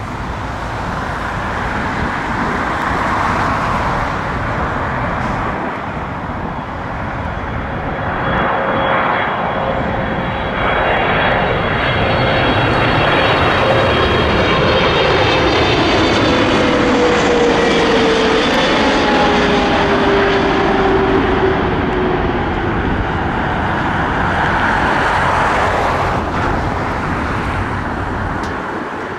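Boeing 777 jet engines on landing approach, passing close by: a steady, loud jet noise with a high fan whine and a tone that drops in pitch as the aircraft goes past, about halfway through.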